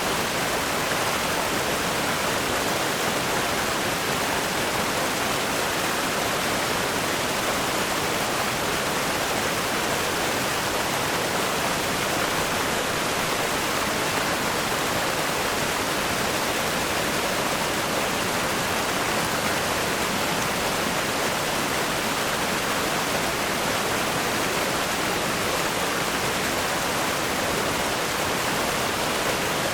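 River rapids rushing over rocks: a dense, steady roar of water with no let-up.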